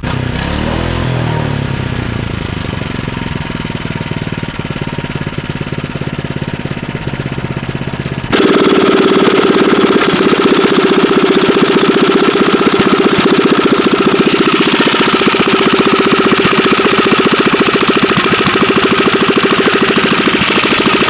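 Engine running through a new loud exhaust, first at a lower, steadier level, then about eight seconds in suddenly much louder, held at the higher level until it cuts off.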